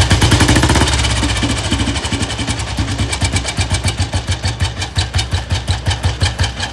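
Royal Enfield Bullet 350's single-cylinder four-stroke engine running, revving briefly near the start and then settling to an even idle beat. It carries a sharp mechanical noise that the mechanic traces to worn teeth on the oil-pump shaft, which leave the top of the engine without oil.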